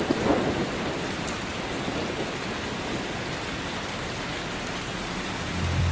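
Heavy rain pouring down in a steady hiss. Low music comes in near the end.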